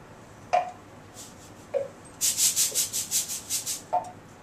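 Classroom percussion sound effects: a few single, sharply struck drum-like taps, and a little after two seconds in a quick run of hissy back-and-forth rubbing strokes, about eight a second, that stops near the end.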